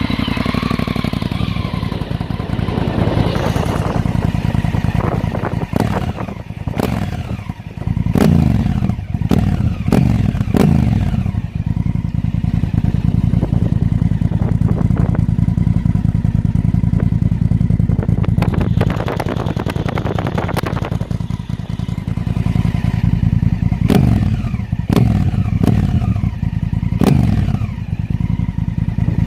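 A 1000 cc motorcycle engine idling just after starting, its exhaust heard, with throttle blips: several short revs about a third of the way in, a longer rev in the middle and more short blips near the end.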